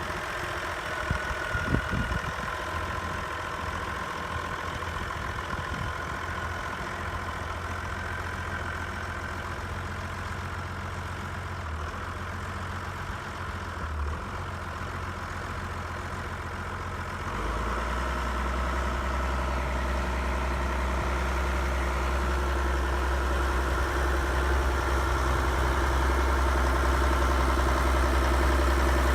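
Case IH 2096 tractor's diesel engine idling steadily, with a few light knocks in the first couple of seconds. A little over halfway through, its note steps up and gets louder, then keeps rising slowly toward the end.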